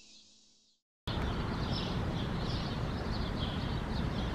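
Silence for about a second, then outdoor sound cuts in abruptly: birds chirping over a steady rushing noise with a low rumble.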